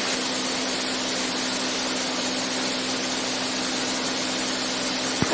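Steady drone of a Beechcraft Bonanza's piston engine and propeller in cruise, heard from inside the cockpit, with one constant hum tone. A sharp click near the end as a radio transmission opens.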